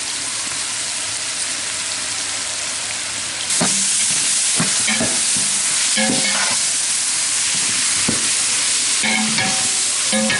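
Sliced onions, green chillies and ginger-garlic paste sizzling in hot oil in a large aluminium pot. The sizzle grows louder about three and a half seconds in, and a metal ladle stirring the pot clanks against its side several times.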